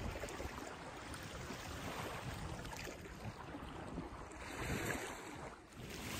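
Steady outdoor wind and water noise, with a brief dip in loudness near the end.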